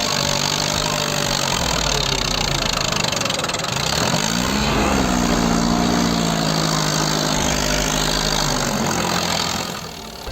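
Tractor engine running under load, revving up about four seconds in and holding a higher pitch before easing back near the end, over a steady hiss.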